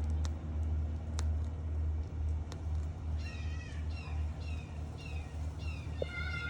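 A bird giving a run of short, down-slurred calls about twice a second, starting about halfway through and ending in a longer call, over a steady low hum.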